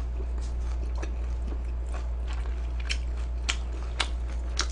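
A person chewing food close to the microphone, with a few sharp, wet mouth clicks in the second half, over a low steady hum.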